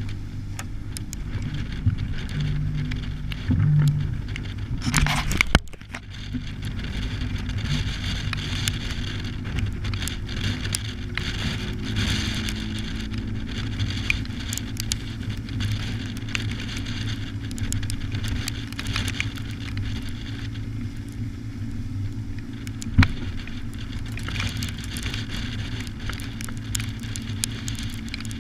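A motor running steadily with the ticking patter of rain over it, and a brief loud rush about five seconds in.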